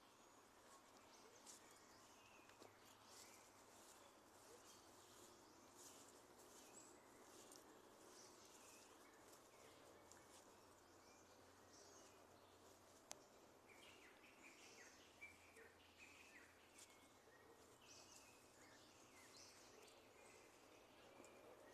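Faint birds chirping and calling in short high notes over a steady low hiss of background noise, busier in the second half. A single sharp click about halfway through.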